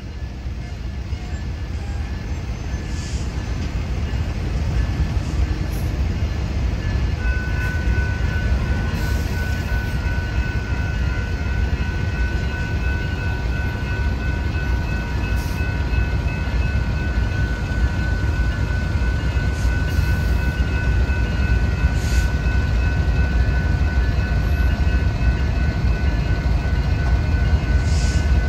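Train rolling past: a heavy low rumble that grows steadily louder, joined about seven seconds in by a steady high-pitched whine that holds to the end.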